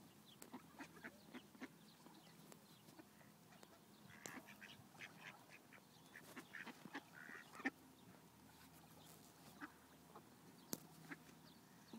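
Ducks quacking in short, scattered calls, faint, with a single sharp click a little past halfway.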